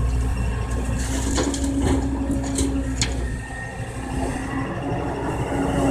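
Kobelco excavator's diesel engine running steadily, with crunching and cracking of soil being worked by the bucket, sharpest between about one and three seconds in.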